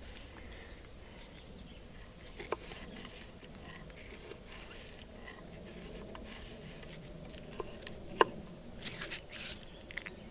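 Knife slicing an apple into thin pieces: quiet crunching and handling rustles, with a sharp click about two and a half seconds in and a louder one a little after eight seconds.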